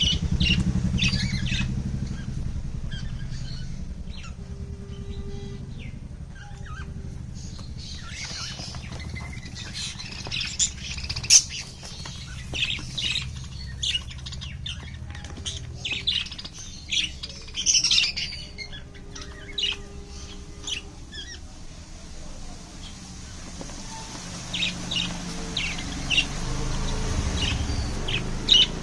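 Many birds squawking and chirping in short, scattered calls, over a steady low hum.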